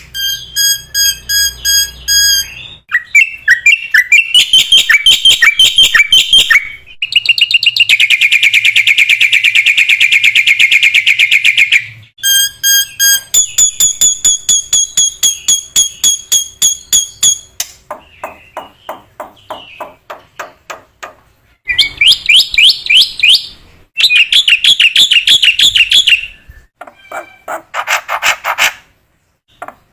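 Black-winged myna (jalak putih) singing loudly in a varied song of very fast rattling trills and clear repeated whistled notes. The song changes abruptly from one phrase to the next every few seconds.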